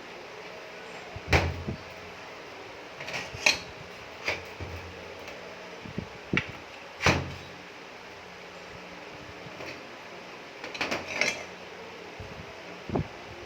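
Scattered knocks and clinks of metal parts being handled on a workbench, several separate hits spread across the stretch, over a steady low hum.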